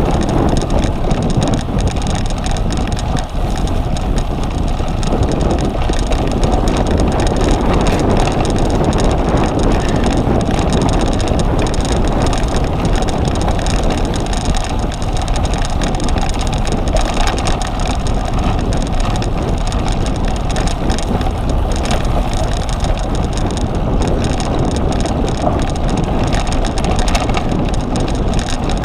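Cyclocross bike riding over rough ground, with wind rushing over the microphone and the bike rattling, a loud, steady noise throughout.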